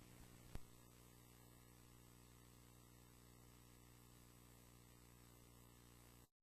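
Near silence: a faint steady electrical hum, with one small click about half a second in, then the sound cuts off to dead silence near the end.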